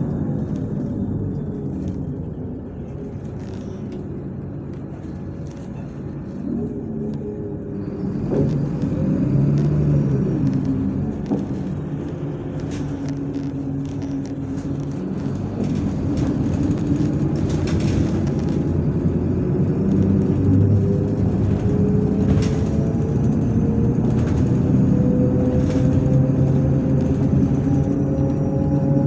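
MAZ-103 city bus heard from inside while driving. The engine and drivetrain drop in pitch at first, then pick up again. From about halfway in, the bus accelerates with a slowly rising whine, under light rattles and clicks from the body.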